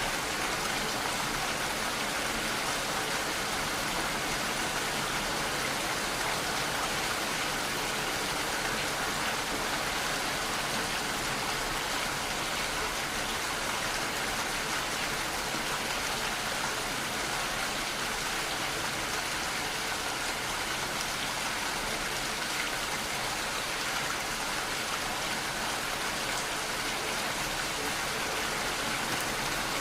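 Steady rainfall, an even hiss of rain with no change in strength.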